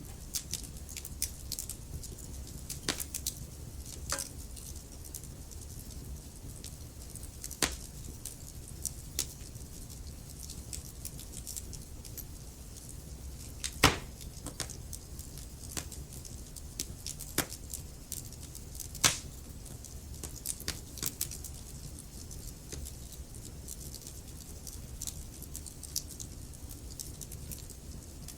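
Log fire burning in a fireplace: the wood crackles with scattered small pops over a steady low rumble of flame, with two louder pops about halfway through, a few seconds apart.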